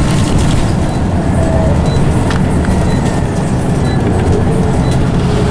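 Scania CN94UB OmniCity bus heard from on board: its diesel engine and ZF automatic gearbox run with a steady low drone and a faint whine from the gearbox.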